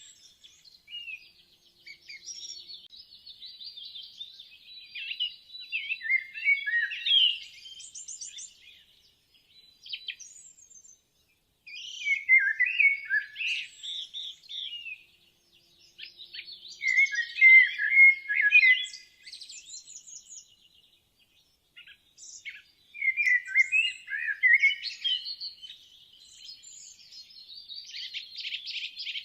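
Birds chirping and warbling in busy phrases of a few seconds each, broken by short pauses.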